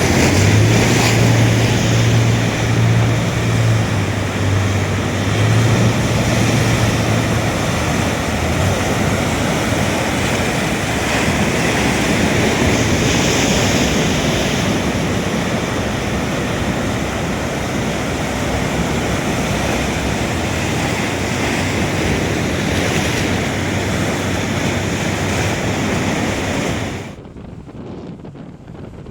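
Ocean surf and wind noise on the microphone, with a boat engine's low steady drone during the first several seconds. The whole sound drops away suddenly near the end.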